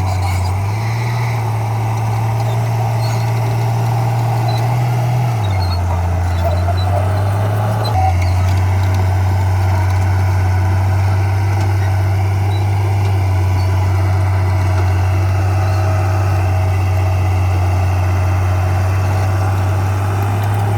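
Diesel engine of heavy earthmoving machinery running steadily, its low hum stepping in pitch a few times as the engine speed changes.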